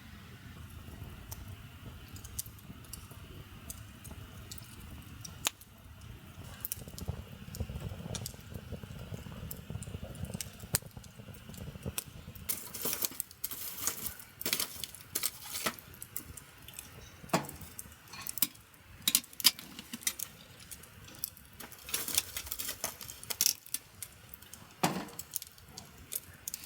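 A run of small sharp clicks and metallic clinks, sparse at first and coming thick and fast from about halfway in.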